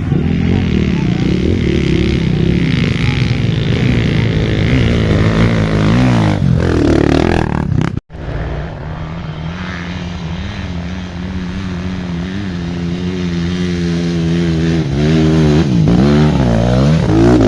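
Dirt bike engines revving hard and easing off as the bikes climb, the pitch rising and falling again and again. The sound breaks off abruptly about eight seconds in, then the revving picks up again and grows louder near the end.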